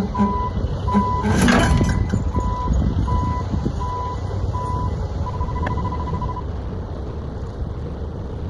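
Vehicle engine running with a reversing alarm beeping at a steady pace, then beeping quickly for about a second before falling silent. A brief clatter sounds about a second and a half in.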